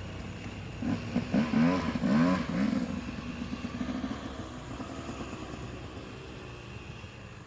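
Dirt bike engine revving up and down several times in quick succession, loudest in the first few seconds, then running more steadily and gradually fading.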